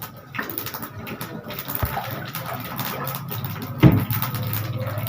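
Mustard seeds and dried red chillies frying in hot coconut oil, a crackling hiss that grows steadily, with scattered pops and one sharp knock about four seconds in.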